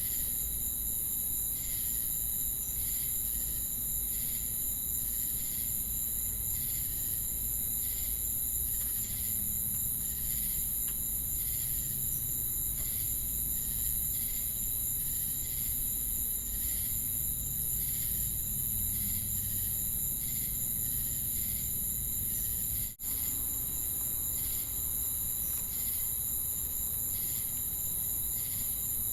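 Crickets and cicadas chirping: a steady, very high-pitched insect drone with regular pulsing chirps over it, a little over one a second. The sound cuts out for an instant about two-thirds of the way through.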